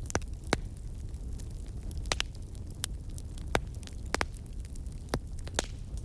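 Crackling fire: irregular sharp pops and snaps, about ten in a few seconds, over a steady low rumble of burning.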